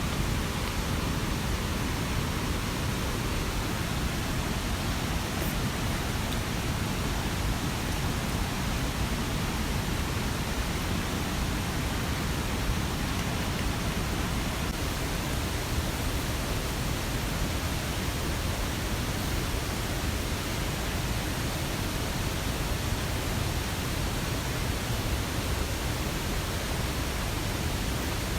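Steady, even rush of running water, like a mountain stream or heavy rain, with no distinct drops or events.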